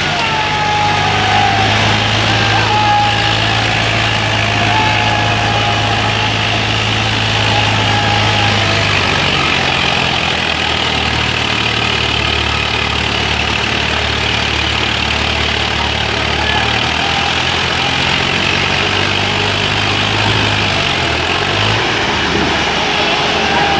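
Diesel tractor engines, a Sonalika 750 and a Swaraj 855, running steadily as they pull against each other in a tug-of-war. The engine note shifts about nine seconds in and changes again near the end.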